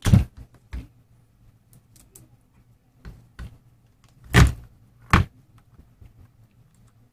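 Handling of an induction cooker's coil plate and plastic housing as its thermal sensor is pulled out: a handful of sharp knocks and clicks of plastic parts, the loudest about four and a half seconds in.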